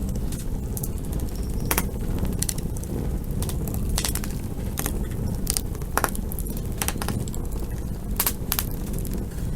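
Campfire burning, wood crackling with sharp irregular pops over a steady low rumble of the flames.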